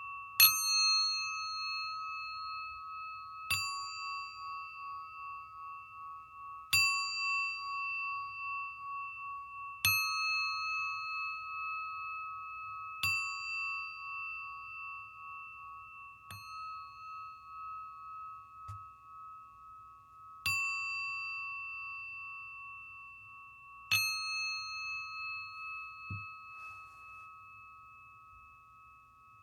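Singing bowl struck eight times, roughly every three seconds; each strike rings on in a long, slowly pulsing hum that carries over into the next. After the last strike the ring fades away near the end.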